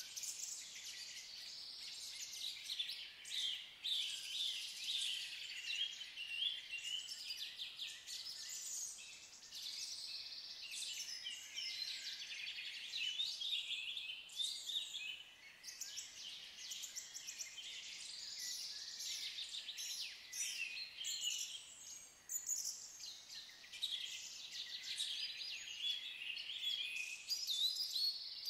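Woodland birdsong: several small birds singing and chirping at once, a high-pitched chorus of overlapping trills and chirps that carries on without a break.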